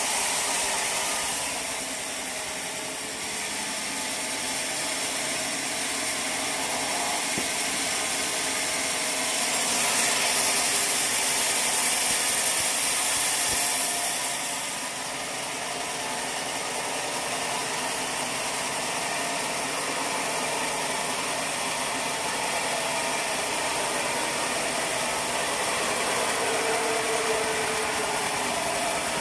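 Sawmill machinery running steadily, with a louder, hissier stretch of sawing through wood from about ten to fifteen seconds in.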